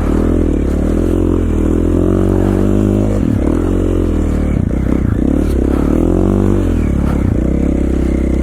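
KTM 450 XC-F dirt bike's single-cylinder four-stroke engine under way, its pitch rising and falling repeatedly as the throttle is worked.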